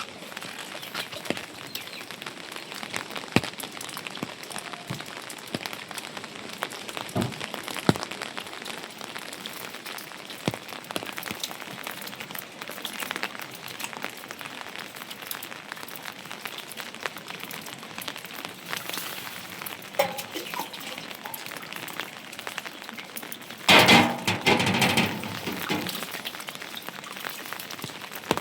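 Steady rain pattering on a surface, with many small drips and ticks, and a short louder sound near the end.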